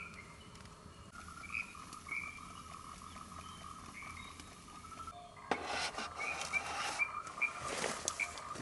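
Animal calls, most like frogs: a steady high chorus with short chirping calls repeated over it. About five and a half seconds in, a rough rustling noise joins, and comes again near the end.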